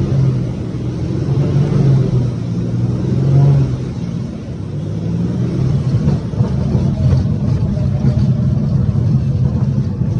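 Light aircraft piston engine running with a continuous drone, its pitch shifting slightly and dipping a little in level about four seconds in.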